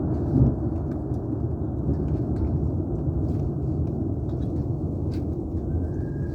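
Thunderstorm noise: a steady low rumble with faint scattered ticks above it, swelling briefly about half a second in.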